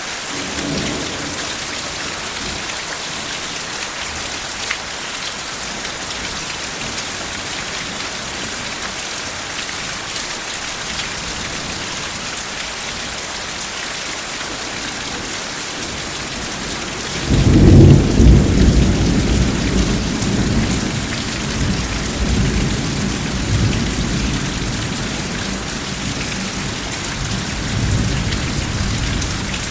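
Steady rain falling, with a roll of thunder that breaks in loudly a little over halfway through and rumbles on in swells until near the end.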